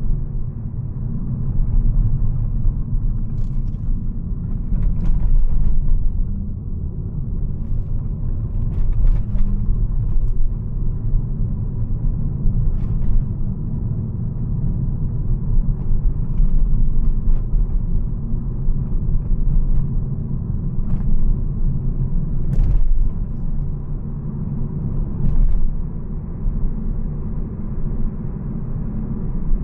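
2011 Volvo C70 T5 on the move: the steady low rumble of its turbocharged five-cylinder engine and road noise, with a few short knocks, the sharpest about two-thirds of the way through.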